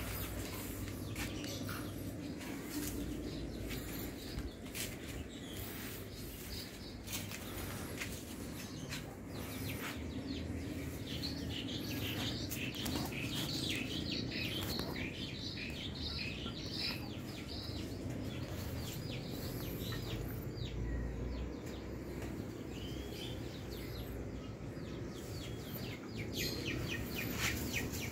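Small birds chirping in runs of short, high, repeated notes, clearest around the middle and again near the end, over a steady low outdoor rumble with scattered rustles and clicks.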